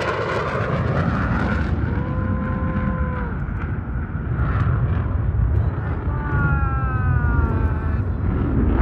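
Aircraft engine noise: a steady rumble, with a held tone for about a second near two seconds in, and a falling whine in the last few seconds as the aircraft passes.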